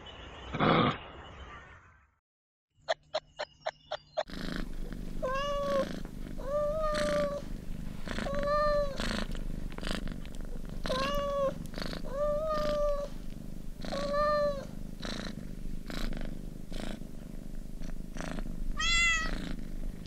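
Domestic cat making a run of short, level-pitched chirping meows, about one every second and a half and ending in a higher rising call, over a low steady rumble. Before it come a short breathy burst and a quick series of sharp clicks.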